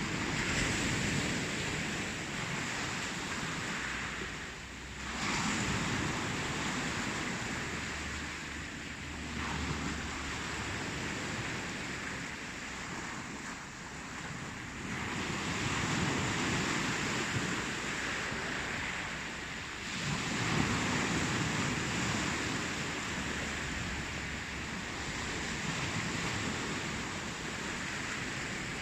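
Ocean surf: waves breaking and washing in, a continuous rushing that swells and eases every few seconds.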